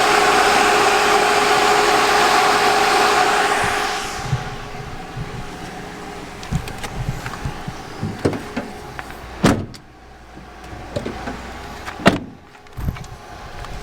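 A 12-volt ProAir rooftop RV air conditioner running, a steady fan rush with a hum from its rear-facing fan. About four seconds in the sound drops sharply to a much quieter background, broken by scattered clicks and knocks.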